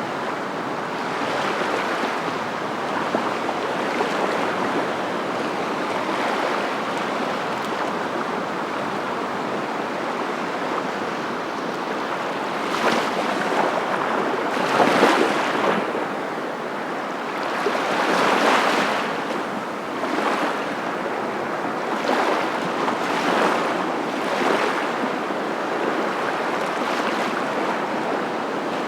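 Waves washing in: a steady rush of water noise with several louder surges in the second half.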